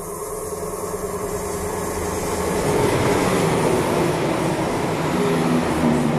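Passenger train running past on the near track, close by, growing louder over the first three seconds as it arrives and then holding a steady rush of wheels on rail with a hum under it.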